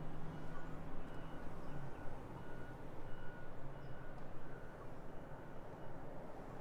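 Steady low rumble of outdoor background noise, with faint short high beeps or chirps repeating about every half second to second.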